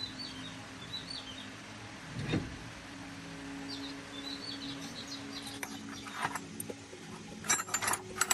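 Small birds chirping in short, repeated calls over a steady low hum, with a dull thump about two seconds in. A quick run of sharp metallic clinks comes near the end.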